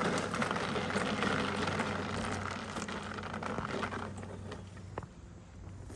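Rattling and clatter of a push mower being wheeled across a hard floor, fading after about four seconds. A sharp click follows about a second later, over a steady low hum.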